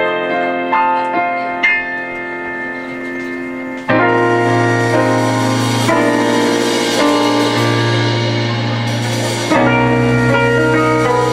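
Live band playing an instrumental passage with sustained guitar or keyboard chords. Lighter picked notes come first, then the full band comes in louder about four seconds in, with another lift and more bass near the end.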